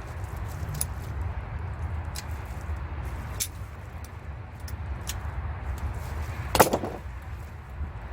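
Metal tools and truck differential parts clicking and clinking as they are worked by hand, with one loud metallic clank about six and a half seconds in, over a steady low rumble.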